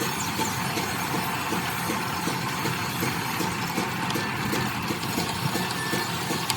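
Steady mechanical running noise of a machine, with faint small ticks throughout.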